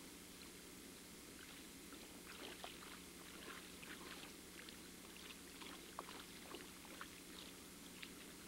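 Near silence: faint, light splashing and lapping of lake water in scattered small ticks, over a steady low hum.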